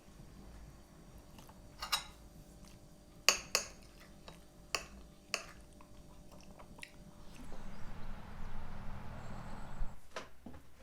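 Sharp clinks and knocks of kitchen dishes and utensils being handled, several in the first half. Near the end comes a few seconds of rushing noise, followed by two more knocks.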